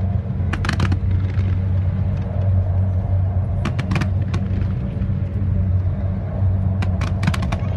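Steady low engine drone of a boat on the harbour, with three quick clusters of firework pops and crackles about half a second, four seconds and seven seconds in.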